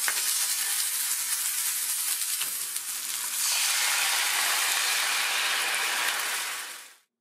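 Chicken drumsticks sizzling and crackling in hot oil in a frying pan. A little over three seconds in, the sizzle jumps to a louder, fuller hiss as the soy-ketchup simmering sauce is poured into the hot pan. It cuts off suddenly near the end.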